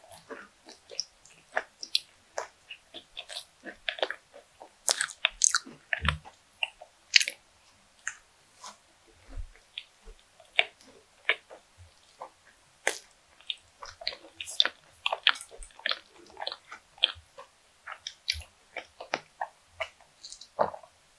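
Close-miked mouth sounds of chewing a bite of fried croquette bread: wet, soft chewing with many irregular crisp crackles from the breadcrumb crust. Near the end, a sip of milk from a glass.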